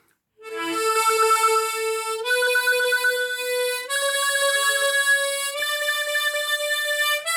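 Harmonica in A played with tongue tremolo: a rolled-tongue flutter on each held note. It climbs a major scale step by step from do, each note held about a second and a half, with a step up at the very end.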